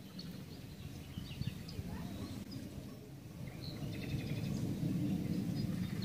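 Small birds chirping in short, scattered calls over a steady low rumble that grows louder in the second half.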